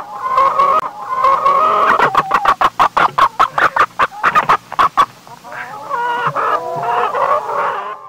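Domestic chickens clucking in a flock, with a fast run of sharp clucks, about five a second, in the middle.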